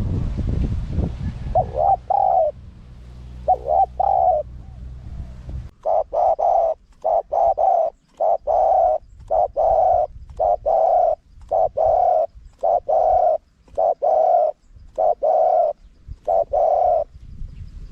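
Spotted dove cooing in short low notes. A low rumble lies under the first few seconds; from about six seconds in the coos come in a steady run of roughly two a second, stopping near the end.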